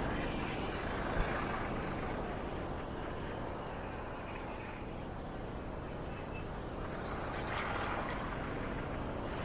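Steady city road traffic noise, with vehicles running alongside; a single short click about a second in.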